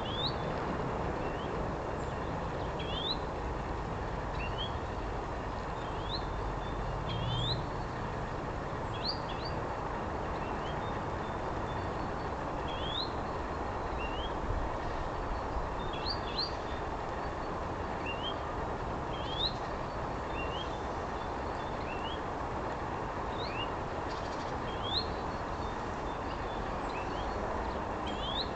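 European greenfinch giving short rising whistles, single or in quick pairs, every second or two, instead of its usual wheezing call and trills. A steady low rumble runs underneath.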